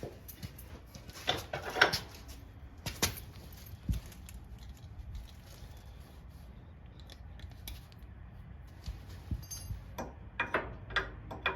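Metal clanks and clinks of snowplow mounting hardware being handled as the blade is pushed back and pinned in: a few sharp knocks in the first three seconds, a quieter stretch, then a quick cluster of clinks near the end.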